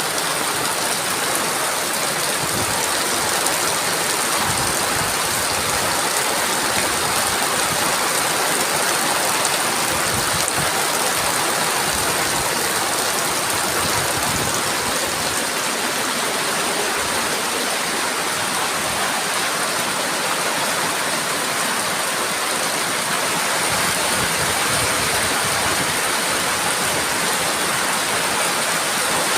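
Heavy rain falling in a steady, dense hiss, with wind gusts now and then adding low rumbles.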